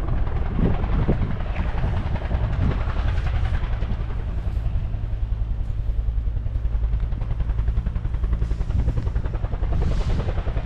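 Helicopter running, its rotor blades beating in a fast, steady low pulse.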